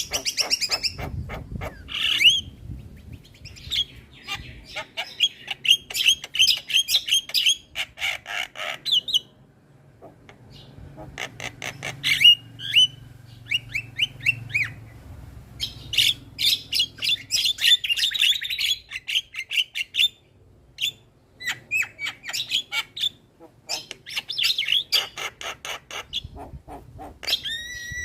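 Javan myna singing a fast, chattering song of rapid sharp notes and whistled glides, with short pauses about a third and two thirds of the way through.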